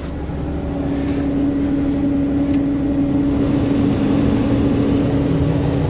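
ProMaster van idling with its heater-defroster fan blowing to clear the frosted windshield. The blower comes up to speed in the first second, then holds a steady hum over the low engine rumble.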